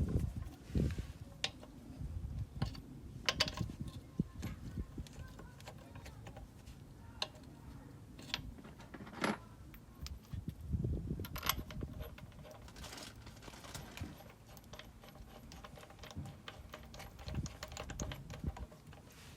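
Irregular light metallic clicks, clinks and knocks from hand tools working on car suspension parts, with some duller low thumps in between.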